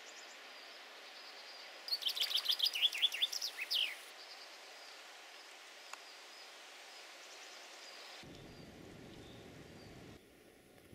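A songbird singing a quick run of high notes for about two seconds, over faint steady outdoor hiss.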